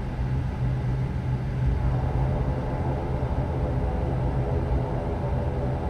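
Inside the cabin of an ATR turboprop airliner on the ground just after landing: a steady low drone from the running engines, with a faint set of higher steady tones joining about two seconds in.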